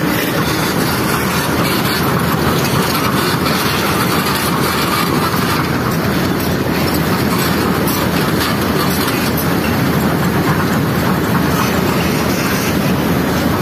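Cold lahar flood rushing down the channel: a steady, loud rumble of muddy water and rolling stones.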